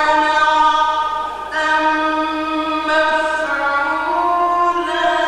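A male reciter's solo voice chanting the Quran in the melodic mujawwad style, holding long melismatic notes. One held note breaks off about a second and a half in, and the next begins at once, its pitch stepping down partway through the phrase.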